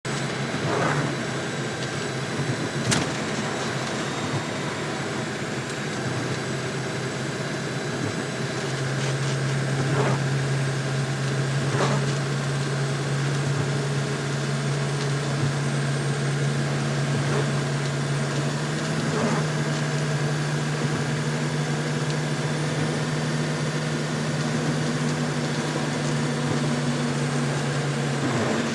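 Hummer H1 running at road speed: a steady engine and drivetrain drone. A level hum sets in about nine seconds in and holds almost to the end, and there are a few sharp clicks, the loudest about three seconds in.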